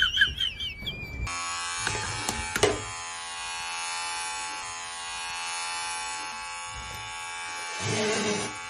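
A small electric motor buzzing steadily, like electric hair clippers or a shaver, starting after a cut about a second in. A brief louder sound rises over it near the end.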